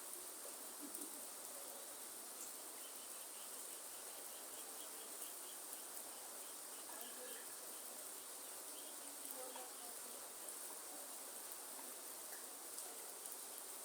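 Rainforest ambience: a steady hiss of rain mixed with a high, steady insect drone. A run of short high chirps repeats through the middle, and a few more come near the end.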